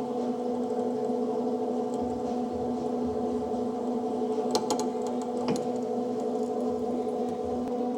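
A steady machine hum holding one pitch, with a few light clicks or taps about halfway through.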